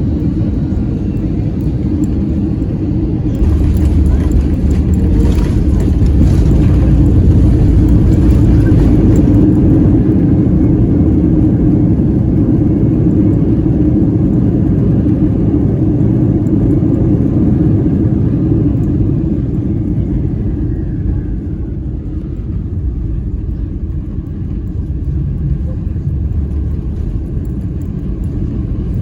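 Airbus A321-200 landing, heard from inside the cabin: a steady low rumble jumps louder with a hissing rush about three seconds in, as on touchdown and deceleration, stays loud for some fifteen seconds, then eases off, with a faint falling whine as the engines spool down.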